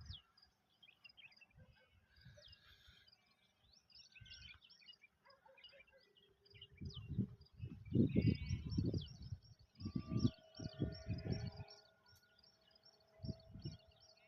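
Small birds chirping and twittering continuously in the background, with several loud low rumbles coming and going in the second half.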